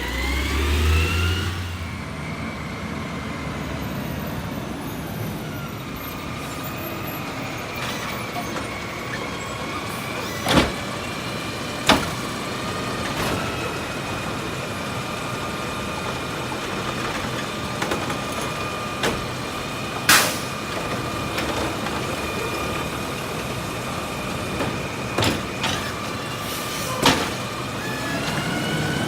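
Garbage truck running: the engine revs up at the start, then holds a steady high whine, with several sharp bangs scattered through.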